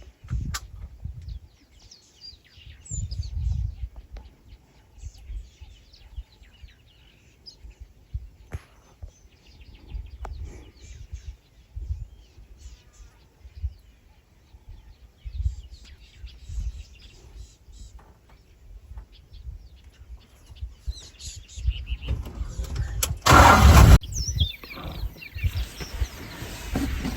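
Birds chirping and calling over a low, uneven rumble, with one loud burst of noise lasting about a second near the end.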